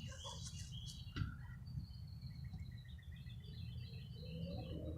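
Faint bird chirping: rows of short, high notes repeated several times a second, over a steady low background rumble.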